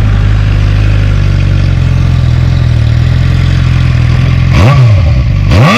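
2009 Suzuki GSX-R600's inline-four engine idling steadily, then blipped twice near the end, the revs rising and falling quickly each time.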